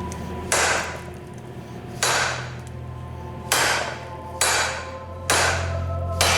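Blacksmith's hammer striking tool steel on an anvil while forging a nail header: six separate blows, about one to one and a half seconds apart, each leaving the metal ringing.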